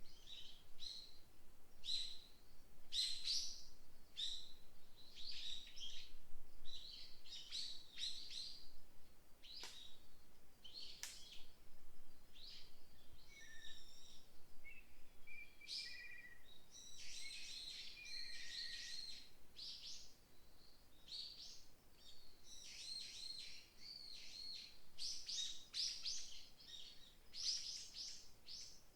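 Songbirds chirping and singing, many quick high notes repeated throughout, with a denser burst of song a little past the middle and again near the end, over a faint breeze.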